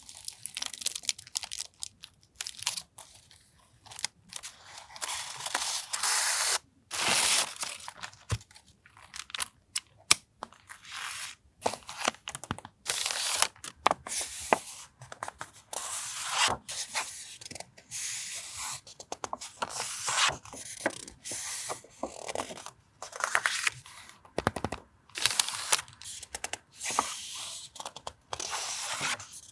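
Paper and packaging being handled by hand: irregular bursts of rustling and crinkling with short pauses, and a few sharp clicks, one loud one about ten seconds in.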